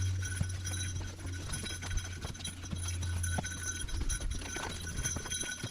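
Footsteps of people walking along a woodland trail, irregular steps and knocks, over a steady high-pitched background whine.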